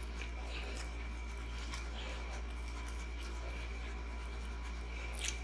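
Quiet chewing and soft mouth sounds over a steady low electrical hum, with one short crisp crackle near the end.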